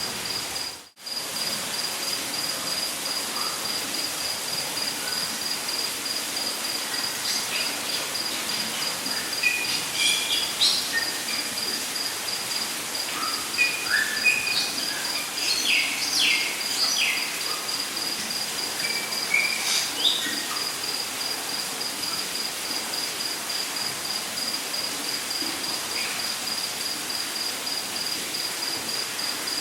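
Rainforest ambience: a steady, evenly pulsed high insect trill over an even hiss of water, with birds calling in short chirps and whistles between about 7 and 20 seconds in. The sound drops out for a moment about a second in.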